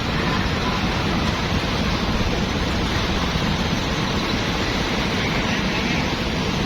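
Steady street traffic noise: motorbike and car engines and tyres running past in a continuous wash.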